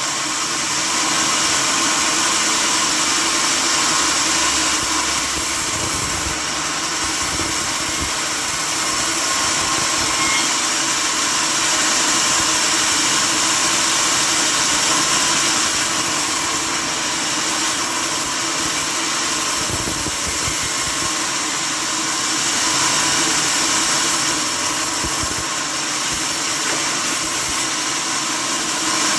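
Sawmill machinery running steadily, a continuous mechanical noise that holds throughout.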